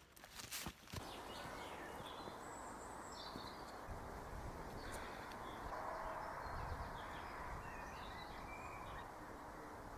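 Woodland ambience: scattered bird calls over a steady rushing background noise, after a few knocks in the first second.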